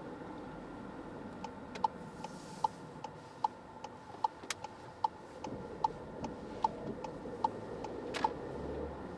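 Car's turn-signal indicator ticking evenly, about two and a half ticks a second for some seven seconds, over the low hum of the car's cabin. The ticking stops near the end as the engine and road noise rise.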